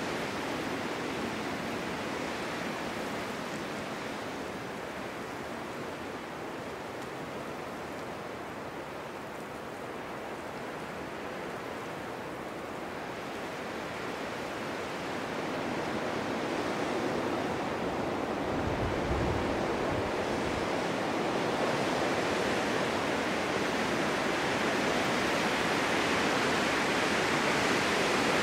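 Wind blowing steadily through a snow-covered forest in a snowstorm, building in strength from about halfway through. About two-thirds of the way in there is a brief low rumble of a gust buffeting the microphone.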